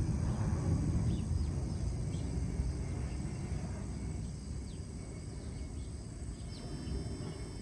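Small birds chirping faintly in short calls over a steady low rumble and a high, steady insect-like buzz. About six and a half seconds in, a high steady tone starts and holds.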